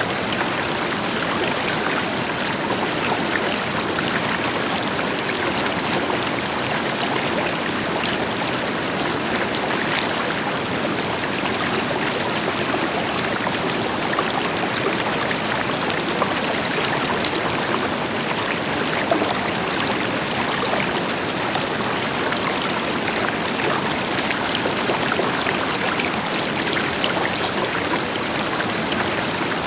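River water flowing steadily over rocks, with splashing and trickling, over the deeper steady rush of a waterfall further off.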